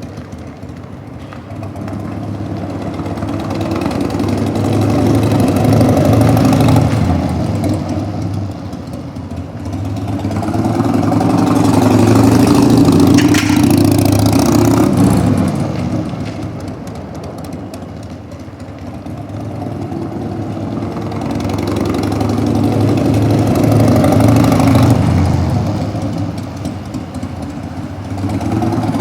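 1998 Harley-Davidson XLH1200C Sportster's air-cooled 1200 cc Evolution V-twin running, its sound swelling and fading slowly three times.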